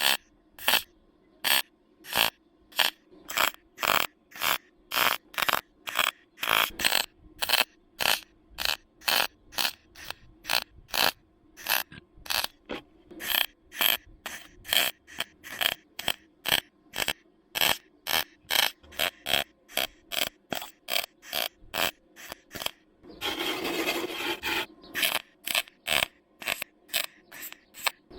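Stitch welding of a steel rust-repair patch on a car body: a long, even run of short welding bursts, about two a second with quiet gaps between them, and one longer continuous weld of about a second and a half near the end.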